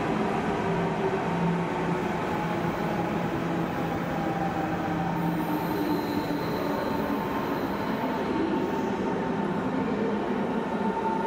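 Red double-deck electric regional train pulling out and moving away: a steady rumble of wheels on rails, with several steady tones running through it.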